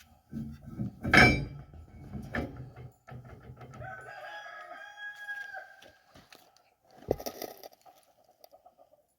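A rooster crowing once, one long held call. A loud knock about a second in and another sharp knock about seven seconds in.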